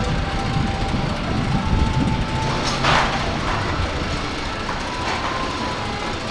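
Amusement park ride rumbling along its track, with a short burst of hiss about three seconds in and faint music behind.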